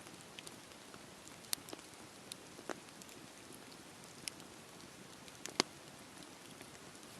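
Campfire burning: a steady low hiss with irregular sharp crackles and pops, the loudest pops about a second and a half in and again about five and a half seconds in.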